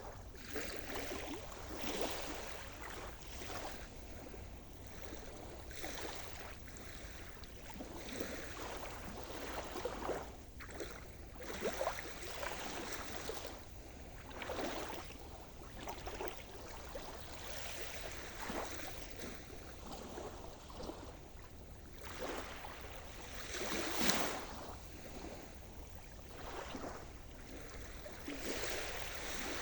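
Sea surf: small waves washing in one after another, every second or two, with one louder wave about three-quarters of the way through.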